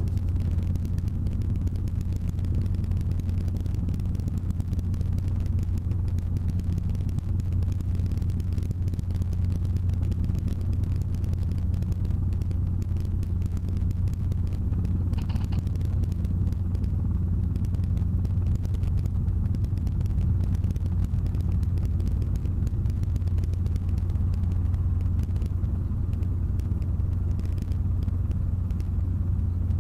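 Robinson R22 Beta helicopter in flight: a steady low drone from its rotor and piston engine, even throughout.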